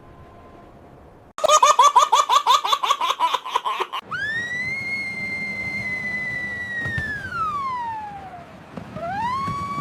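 Cartoon sound effects: a rapid, high-pitched chattering burst lasting about two and a half seconds, then a long whistle that holds and slides steadily down in pitch, the classic cartoon falling whistle. Near the end a second whistle slides up and holds.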